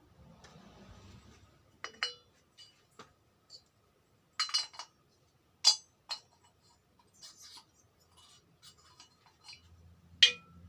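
Metal engine parts being handled on a workbench: a short rubbing at first, then a series of separate sharp metallic clinks and taps. A low steady hum starts near the end.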